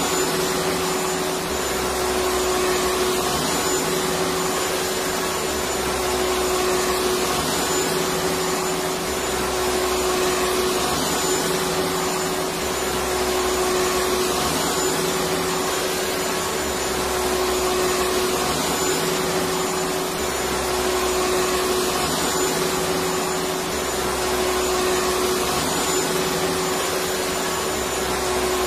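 Electric vacuum cleaner running steadily: a full rushing hiss with a steady motor hum, swelling slightly about every two seconds.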